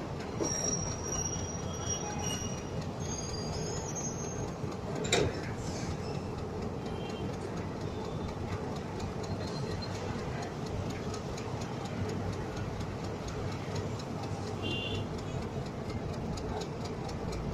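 A train running along a station platform, with a steady rumble of wheels on the rails. Thin high wheel squeals come in over the first four seconds or so, and there is a single sharp clank about five seconds in.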